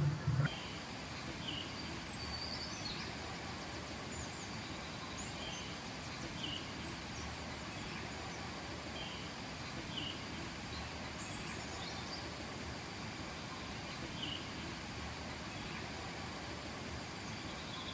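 Steady rush of a river, with small birds giving short high chirps every second or two.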